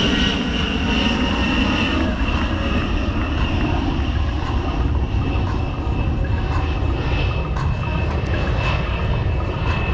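A-10 Thunderbolt II's twin General Electric TF34 turbofan engines running, a steady jet rumble with a high whine that drifts slightly lower in pitch during the first couple of seconds and then holds.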